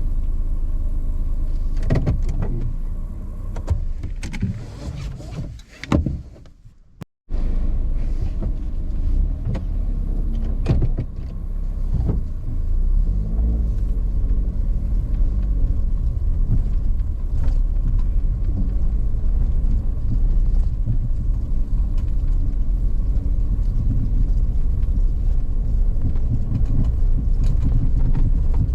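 Car driving, a steady low rumble of engine and tyres with occasional knocks and bumps. The sound cuts out briefly about seven seconds in, then the driving rumble resumes.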